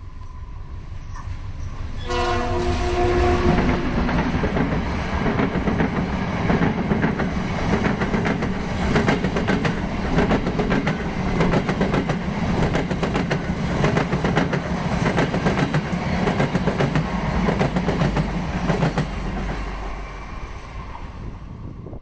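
Diesel locomotive hauling the Gajahwong passenger train past at close range: a blast of its several-toned horn about two seconds in lasting a second and a half, then the rumble of the train and the steady clatter of wagon wheels over rail joints, easing off near the end.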